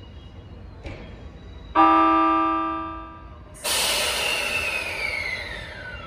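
Sounds from an E653 series electric train at a station platform. About two seconds in comes a ringing tone that fades over about a second and a half. Then a loud rush of air starts, with a whistle that falls steadily in pitch.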